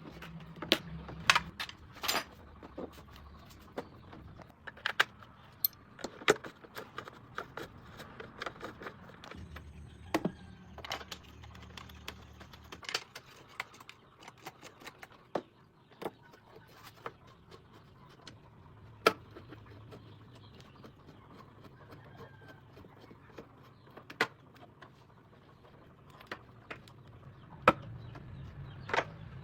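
Irregular metallic clinks and knocks of hand tools at work on a motorcycle, a few of them sharp and loud.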